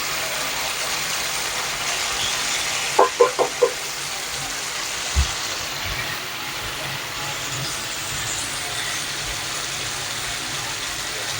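Marinated chicken tikka pieces sizzling steadily in hot oil in a pan, as they are turned. Four quick taps come about three seconds in and a low thump about five seconds in.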